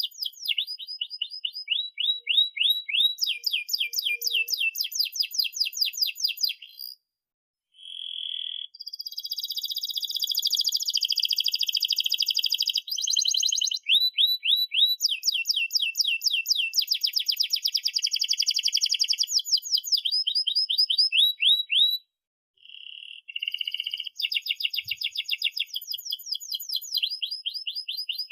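Domestic canary singing a long song of fast trills and rolls, each phrase a rapid run of repeated rising notes. It stops briefly twice, about seven and twenty-two seconds in.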